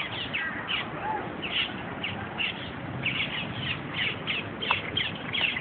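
Birds calling: short, harsh high calls, coming more often from about three seconds in.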